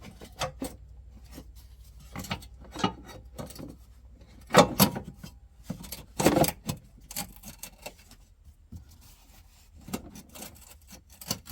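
Plastic air intake box being handled and worked into place in a car's engine bay: scattered rubbing, clicks and light knocks, with two louder scrapes about four and a half and six seconds in.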